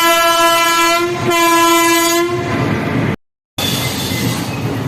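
Train horn sounding loudly, with a brief break about a second in, then stopping about two seconds in, leaving the rumble of the train running. After an abrupt cut, the train's running noise resumes with a thin high-pitched squeal.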